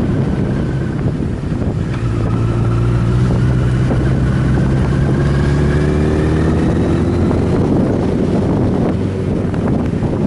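Motorcycle engine pulling under load with heavy wind buffeting on the microphone at riding speed. The engine note climbs slowly in pitch for several seconds, then eases off near the end.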